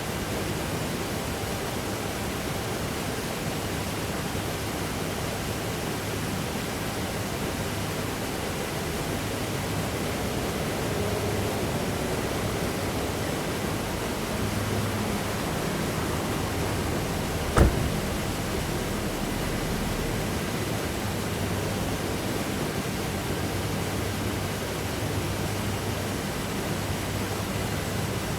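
Steady noise hiss with a faint low hum, and one sharp knock a little past the middle.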